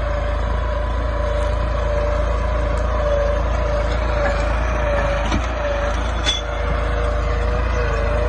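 New Holland 3230 tractor's diesel engine running steadily, with a steady whine over the rumble and two brief knocks about five and six seconds in.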